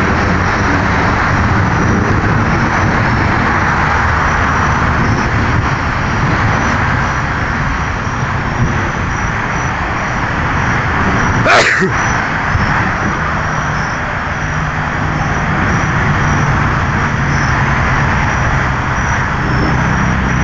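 Thunderstorm noise: a steady, loud rushing of rain and wind, with one brief sharp crack a little past halfway.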